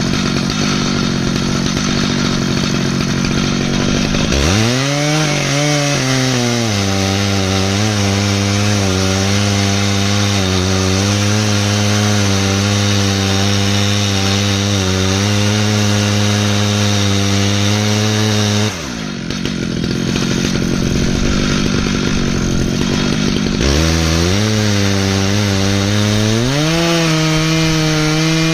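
Stihl MS 881 two-stroke chainsaw running hard in an Alaskan chainsaw mill, ripping a slab from an ash log. The engine runs continuously, its pitch climbing, dropping and settling again several times as it works.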